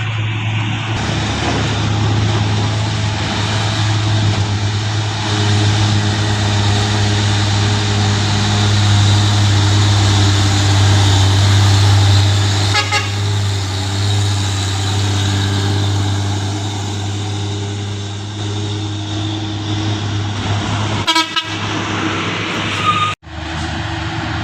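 Heavy truck diesel engine running steadily under load with a strong low drone, with short horn toots about halfway through and again near the end.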